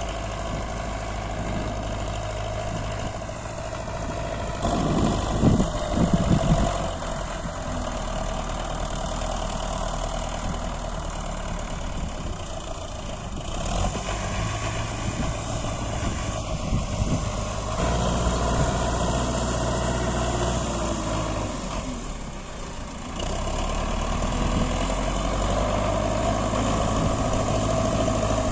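Belarus 510 tractor's diesel engine running steadily, with a burst of loud knocks and rattles about five to seven seconds in. The engine note shifts a few times.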